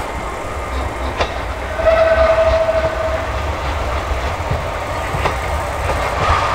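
Classic SIG/BBC/Sécheron Be 4/4 railcar of the Lauterbrunnen–Mürren mountain railway running along the metre-gauge track, with a single steady horn blast of just over a second about two seconds in. A few sharp clicks of the wheels over rail joints come over a low rumble.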